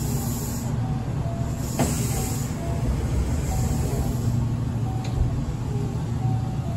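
Hankyu 8200 series electric train running, heard from inside the passenger car: a steady low rumble of wheels and running gear, with one sharp click about two seconds in.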